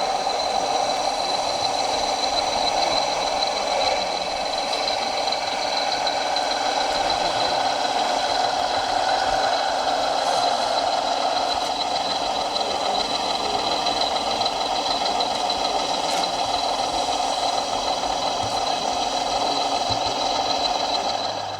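Radio-controlled scale truck running steadily with an engine-like diesel sound and a high, steady whine above it. It stops abruptly near the end.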